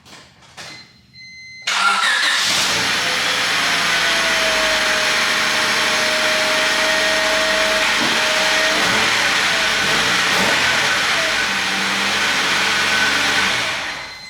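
1997 Honda Civic coupe's four-cylinder engine starting up about two seconds in, running steadily and being shut off near the end. Its exhaust manifold flanges have just been resealed with high-temp RTV to cure a long-standing exhaust leak, and it sounds a lot quieter, with no leak heard.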